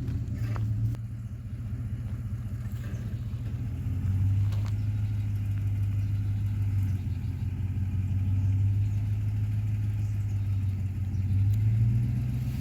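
A 2008 Ford F-150's 5.4-litre three-valve V8 running under load while the truck drags a downed tree. The engine note is steady, then gets louder and rises in pitch about four seconds in and again near the end.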